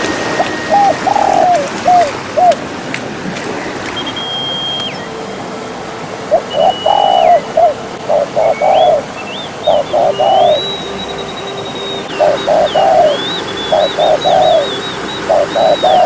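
Birds calling: a repeated call of short notes in groups of two to four, with a thin, higher whistling call held and wavering above it.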